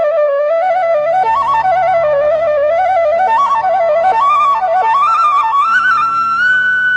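Background music: a flute plays a quick, ornamented melody over low held drone tones, settling onto a long held high note near the end.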